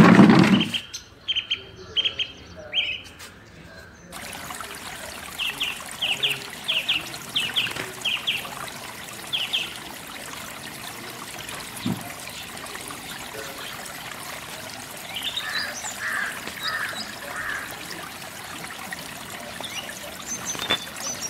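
Small birds chirping in quick runs of short, high notes, several runs spread across the stretch, over a steady hiss that sets in about four seconds in. A brief loud noise right at the start.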